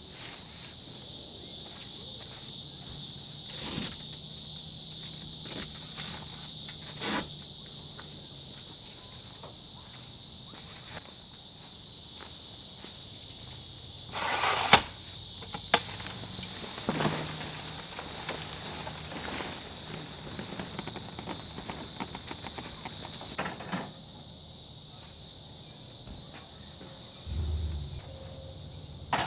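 Steady high-pitched chorus of crickets, with a few scattered knocks and clatters of things being handled close by, the loudest about halfway through.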